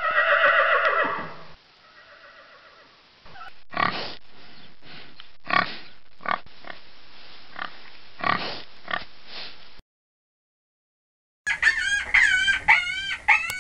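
Farm animal calls: a horse's whinny trails off in the first second or so, then a series of short, irregular grunts. After a brief silence, quick pitched chicken calls begin near the end.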